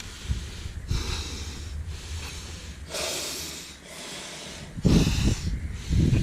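A person breathing hard, in hissy puffs about once a second, with wind buffeting the microphone as a loud low rumble from about five seconds in.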